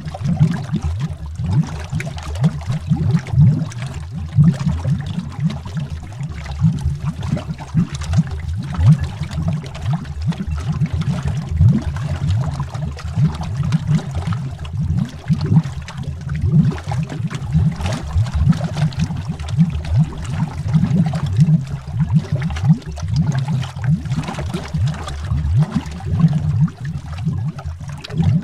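Continuous underwater bubbling: a dense stream of deep, rapid bubble pops and gurgles, rising and falling in loudness.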